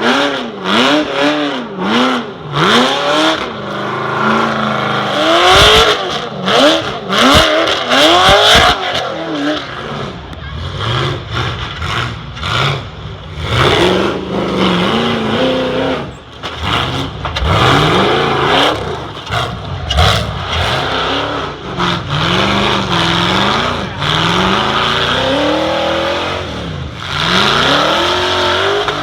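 Off-road truck engine revving hard again and again as it works through an obstacle, its pitch repeatedly climbing and dropping. A run of sharp knocks comes a few seconds in.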